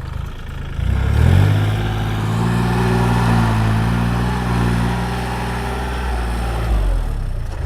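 Tractor engine revving up about a second in and running hard at a steady pitch while working dirt, then easing off near the end.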